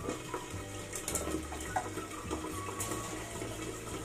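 Fish frying in hot oil in a covered wok: a steady sizzle with scattered small pops of spattering oil.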